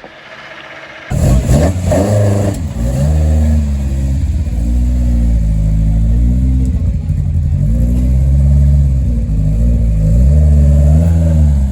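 Classic Mini rally car's four-cylinder engine, heard from inside the car, coming in suddenly about a second in and revving, its pitch rising and falling several times as it accelerates.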